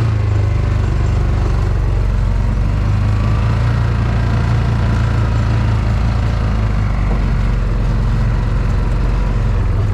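A vehicle engine running steadily with a deep, even drone.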